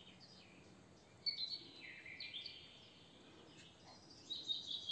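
Faint bird chirping: a few short, high falling notes in the first half, then a longer run of chirps near the end.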